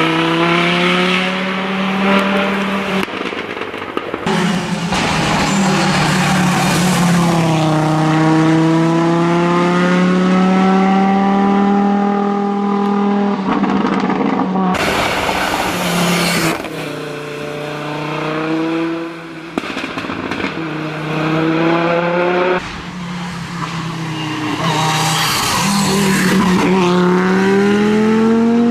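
Audi Quattro S1 rally car's engine being driven hard. The note climbs in pitch under acceleration and drops back at gear changes and lifts, several times over.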